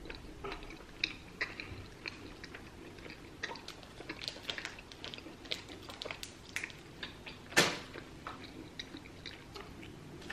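Close-up mouth sounds of someone chewing a small piece of candy: irregular soft wet clicks and smacks, with one louder, brief noise about seven and a half seconds in.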